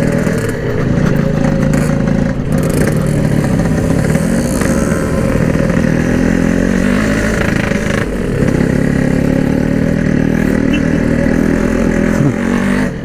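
Yamaha RX-King's two-stroke single-cylinder engine and exhaust running loud under way, its pitch rising and easing with the throttle, with brief let-offs.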